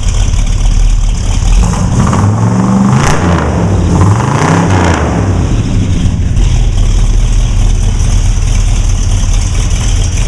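1968 Oldsmobile 442's 400 Rocket V8 idling, revved twice in quick succession about two seconds in, then settling back to a steady idle.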